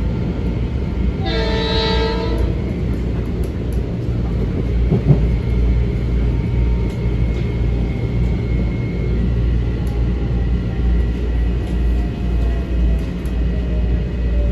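Metro-North M7 electric train heard from inside a car while running, a steady low rumble of wheels and motors. A single horn blast lasting about a second sounds near the start, and a faint whine later drops slowly in pitch.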